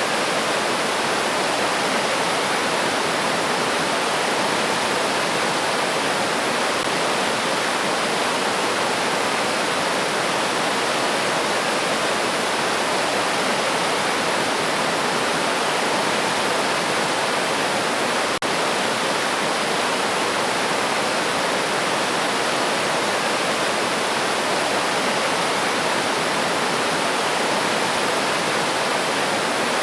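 River water rushing steadily over rocks, an even, unbroken hiss of flowing water.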